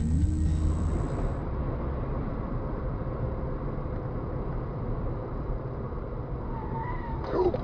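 Steady rumbling road and engine noise of a car driving, with a short cluster of sharp noises near the end.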